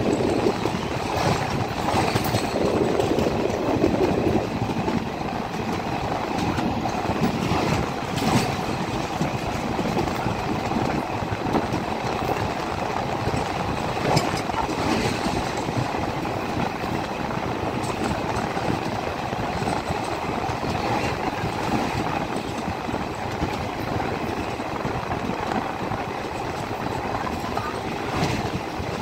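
Express passenger train running across a river bridge, heard from aboard at an open door or window: a steady rumble and rattle of wheels on the rails, with a few sharp clanks along the way.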